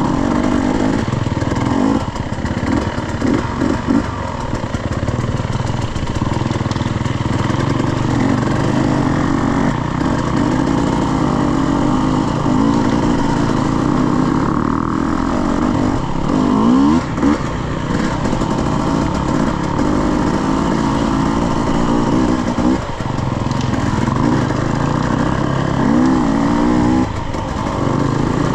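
Dirt bike engine running continuously while being ridden, the revs rising and falling with the throttle. There are sharper rev swings a few seconds in, about halfway through and near the end.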